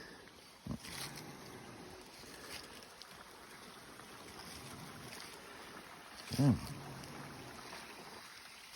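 Steady wind rumble on the microphone, with a single short voice-like sound that rises and falls in pitch about six and a half seconds in.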